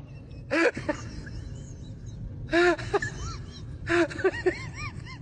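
An animal giving short cries that rise and fall in pitch, three times about a second and a half apart, with fainter high chirps in between.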